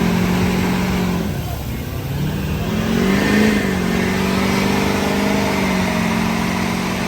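A car engine running steadily, easing off briefly about a second and a half in, then revving up around three seconds in and settling back to a steady drone.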